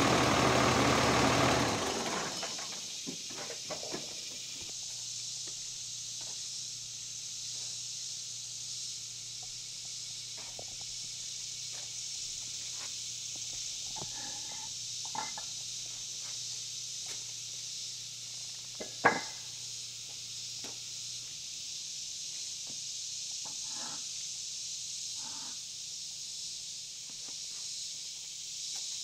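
One-ton dually pickup truck's engine running, then switched off about two seconds in. After it a steady high hiss remains, with scattered light knocks and one sharp knock near the middle.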